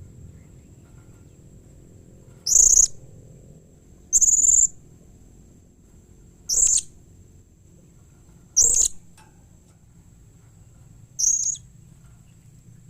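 Blue-crowned hanging parrot (serindit) giving five short, shrill, very high calls, spaced about two seconds apart.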